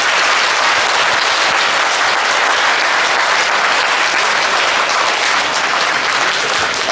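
An audience applauding, steady dense clapping.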